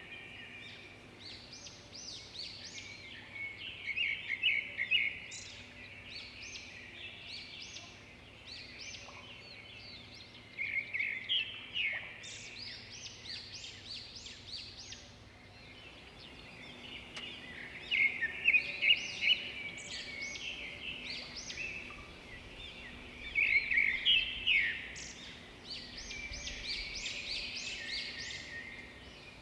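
Several songbirds chirping and twittering in a busy chorus of short, quick high notes, swelling into louder flurries every few seconds.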